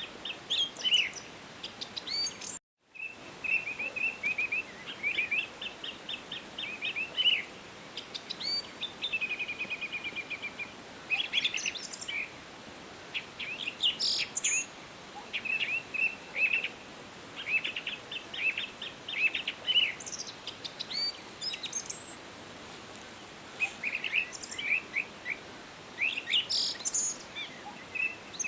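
Forest birds singing: a run of repeated short chirps and rapid trills from several birds, over a steady faint background hiss. The sound cuts out completely for a moment a little under three seconds in.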